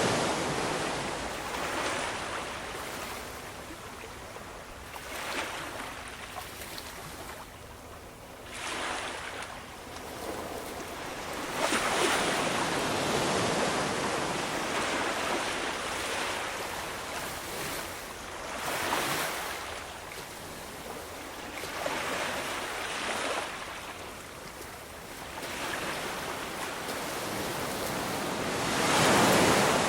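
Ocean waves breaking and washing on a shore, the surf swelling and easing every few seconds, with one loud wave near the end.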